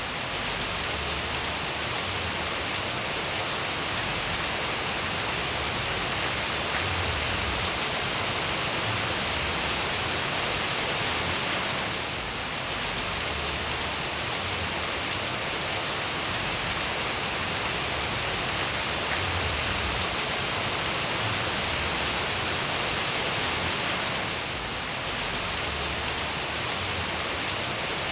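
Steady rain falling, an even hiss of drops. The level dips briefly twice, about twelve and about twenty-five seconds in.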